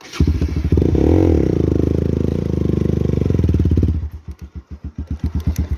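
Motorcycle engine revved hard and held for about four seconds, then dropping back so that its separate firing pulses are heard slowing down.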